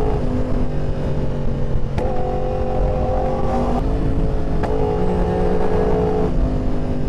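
Yamaha R1 superbike's inline-four engine running under way, with heavy wind rumble on the microphone. The engine note holds steady and then shifts in pitch a few times, each change marked by a brief click.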